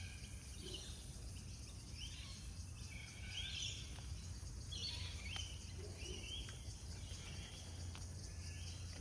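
Birds chirping intermittently over a steady low rumble of outdoor background noise.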